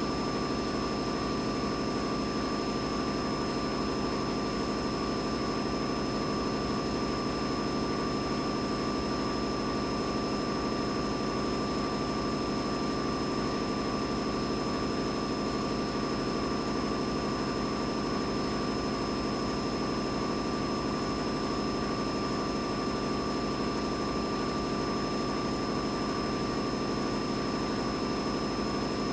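Boiler room ambience: a steady machinery drone with a constant hum and two thin, steady whining tones, one mid-pitched and one high.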